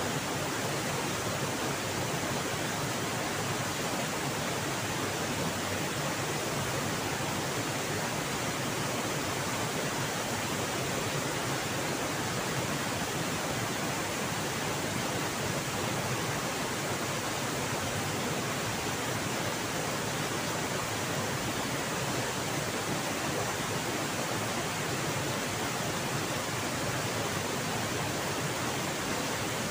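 Fast, swift-flowing river water rushing over rocks below a waterfall: a steady, unbroken rush of water.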